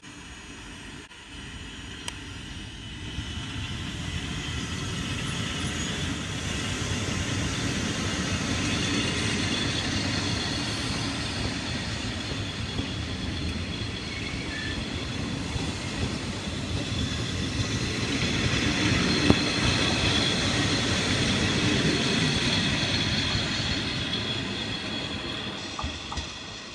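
Four-car Trenitalia ALe 642 electric multiple unit running past on the rails, growing louder from about three seconds in, loudest in the second half, then fading as it moves away near the end.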